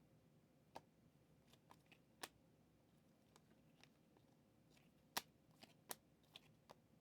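Faint, irregular clicks and ticks of 2023 Panini Mosaic football trading cards being handled and flipped through, with a sharper click just after five seconds.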